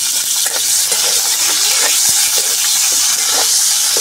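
Whole scored red onions sizzling in hot oil in an iron kadhai: a steady frying hiss with scattered small pops and crackles.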